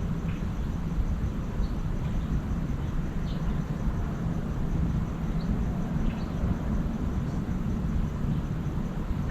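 Steady low outdoor rumble, with a few short, faint bird chirps scattered through it.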